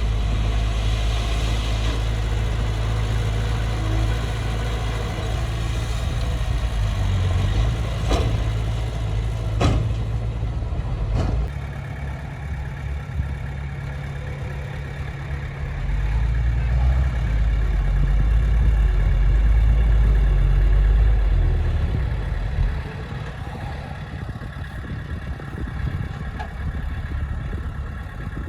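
Diesel engine of a Komatsu D20P bulldozer running under varying load, rising and louder for a while past the middle, then easing off. Three sharp metallic clanks come a little before the middle.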